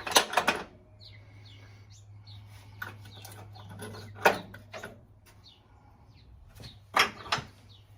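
Wrench and metal hand tools clinking and knocking against the front of a Ford 302 V8 while working on the harmonic balancer: a quick cluster of sharp clacks at the start, one about four seconds in and two more near the end, over a steady low hum.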